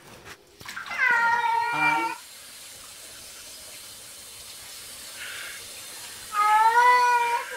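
Domestic cat meowing twice: a drawn-out call about a second in and another near the end, each wavering in pitch, with a steady faint hiss between them.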